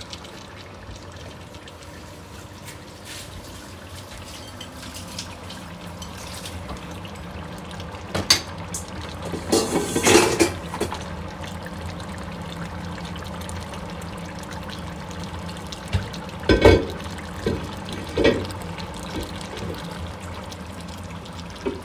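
Tomato and tomato sauce cooking in hot oil in a pot, a steady sizzling hiss. A few louder clatters and scrapes against the pot come about 8 to 11 seconds in and again around 16 to 18 seconds.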